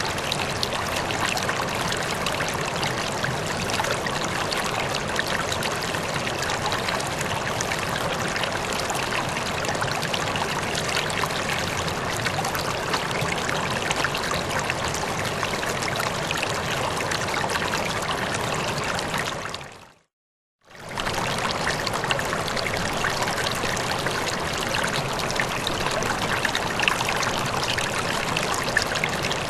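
River water flowing, a steady rushing and trickling. About two-thirds of the way through it fades out to silence for about a second, then fades back in.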